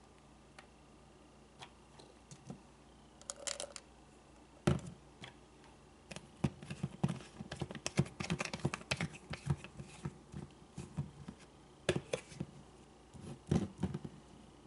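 A plastic supplement bottle of softgels being handled: scattered clicks and taps with short rattles, densest in the middle, with a sharp click about a third of the way in.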